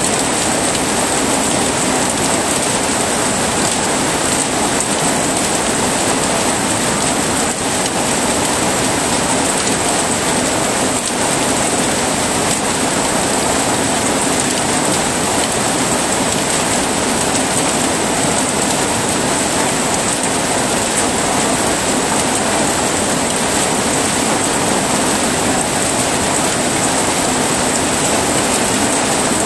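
Heavy rain falling steadily: a dense, even hiss without let-up.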